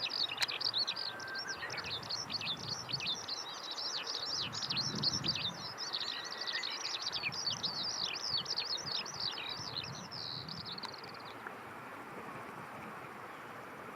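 Small birds chirping rapidly, a dense run of quick, high, downward-sweeping chirps several a second, which stops about eleven seconds in, leaving a steady outdoor background hiss.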